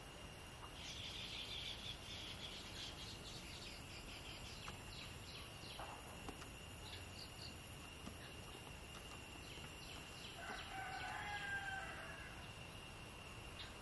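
Birds calling: quick high chirps over the first half, then a louder drawn-out call lasting about a second and a half near the end, over a steady faint high tone.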